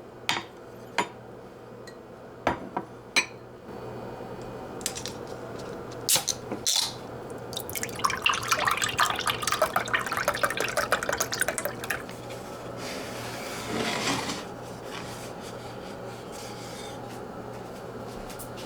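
Kitchen sounds: a few light clicks and knocks of dishes or utensils, then liquid pouring or trickling for about four seconds.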